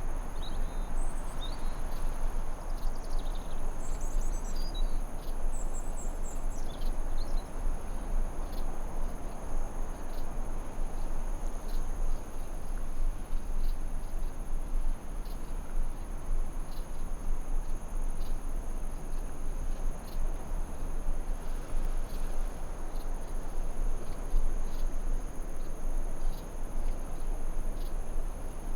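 Forest ambience: a continuous high insect trill over a steady hiss, with a few quick, falling bird chirps in the first several seconds.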